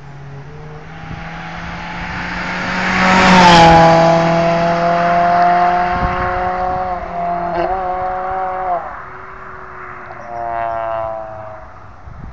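Scion tC's four-cylinder engine and exhaust as the car accelerates past: the exhaust note builds to a peak about three and a half seconds in, where its pitch drops as it goes by. It then holds a steady drone and fades away by about nine seconds. A fainter rising engine note follows a little after ten seconds.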